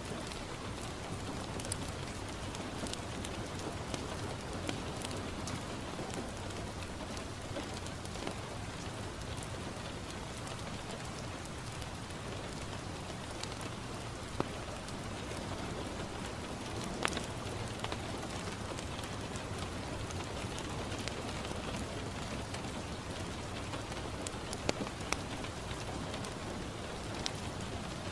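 Steady rain falling on a window, with scattered sharp pops and crackles from a wood fire in a fireplace.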